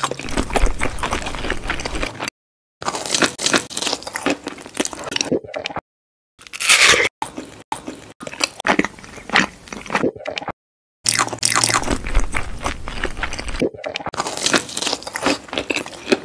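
Close-up eating sounds dubbed over a cartoon: crunchy bites and wet, squishy chewing of food. They come in several spliced takes with sudden dead-silent cuts between them, about two, six and ten seconds in.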